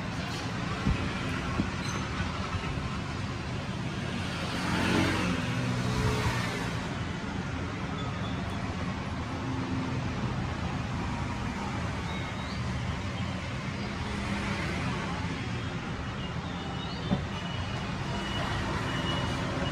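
Steady road traffic noise, with a vehicle passing about five seconds in, and a few light clicks.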